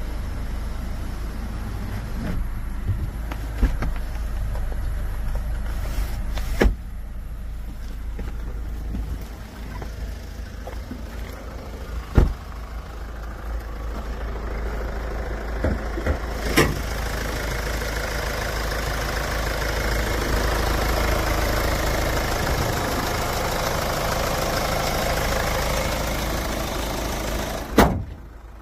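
Hyundai Tucson ix idling, heard from inside the cabin as a steady low hum, with a few sharp clicks and knocks. A rushing hiss builds over the second half, and the sound drops suddenly after a loud click near the end.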